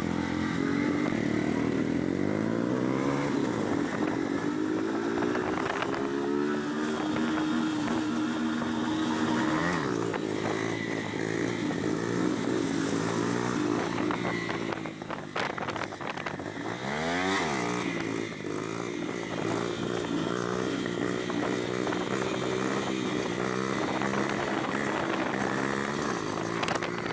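Honda CB 300's single-cylinder engine running under way, its pitch rising and falling as the rider works the throttle and gears. The revs drop and climb sharply about ten seconds in and again near seventeen seconds.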